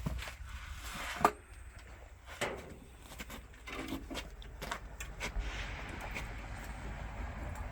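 Mechanical clicks and knocks from handling a .22 LR rifle and its gear between shots, with one sharp crack about a second in that stands out as the loudest sound.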